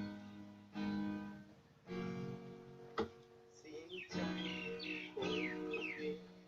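Acoustic guitar music, chords strummed roughly once a second and left to ring.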